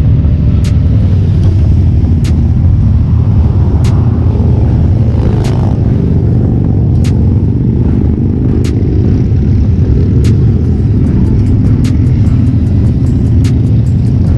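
Motorcycle engine running steadily at cruising speed, a loud, even low rumble. Music with a regular beat plays over it and its percussion comes quicker near the end.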